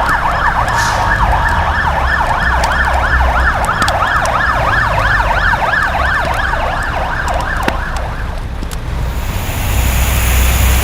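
Fire engine sirens yelping, several rapid up-and-down sweeps overlapping, with a low engine rumble beneath. The sirens cut off about eight seconds in, and a steady hiss-like noise follows near the end.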